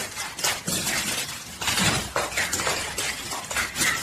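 Repeated clattering and clinking of hard objects, as of things knocked about on a surface: an irregular run of sharp knocks, several a second.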